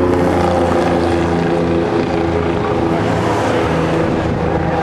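Race car engines running at a steady idle, with a low even drone whose pitch shifts slightly now and then.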